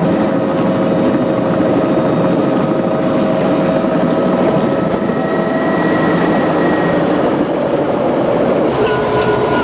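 Helicopter in flight: a loud, steady rush of engine and rotor noise with several steady whining tones over it, which shift slightly in pitch near the end.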